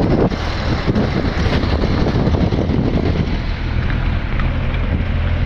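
Wind buffeting the microphone on a moving motorcycle, with the engine's steady low drone underneath; the buffeting eases about three seconds in.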